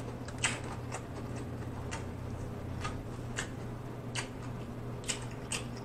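Close-miked chewing of a mouthful of broccoli: scattered, irregular crisp clicks and crunches over a steady low hum.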